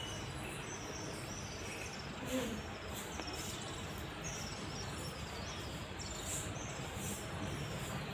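Steady outdoor background noise with a small bird chirping over and over in short high notes, about twice a second, and a few faint sharp clicks.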